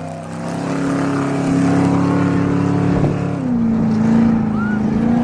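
Off-road race vehicle's engine running hard at steady revs. Its note drops in pitch a little past halfway as it passes by.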